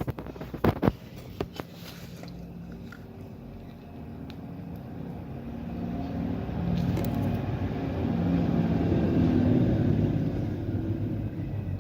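Car engine running steadily, growing louder over several seconds before easing off slightly near the end, with a few sharp clicks in the first two seconds.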